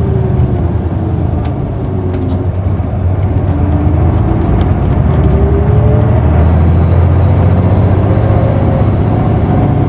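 City bus engine heard from inside the cabin: its note falls for about two seconds, then climbs and holds louder as the bus accelerates again. A few sharp rattling clicks in the middle.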